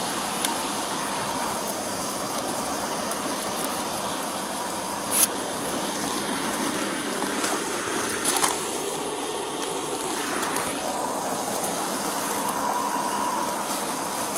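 Steady roadside traffic noise, with vehicles passing in a continuous rush. Two short clicks come about five and eight and a half seconds in.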